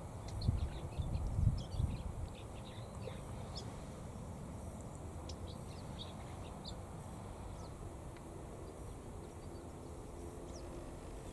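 Wild songbirds giving short, scattered chirps, most of them in the first seven seconds, over a steady low outdoor rumble, with a few low bumps of wind or handling noise in the first two seconds.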